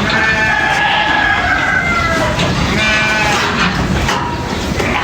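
Sheep bleating: one long wavering bleat, then a shorter one about three seconds in.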